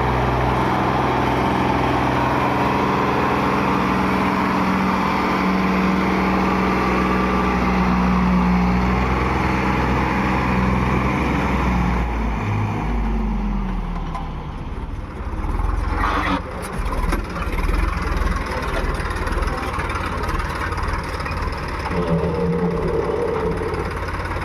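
Heavy diesel engine running steadily under load, its pitch falling away about halfway through. It then runs rougher and more unevenly, with a brief sharp noise a few seconds later.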